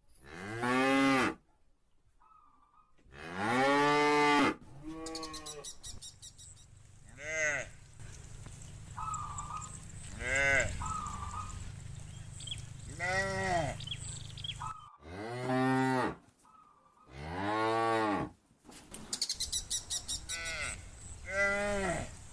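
Cows in a herd mooing over and over: about nine long moos, each rising and then falling in pitch, with short pauses between them.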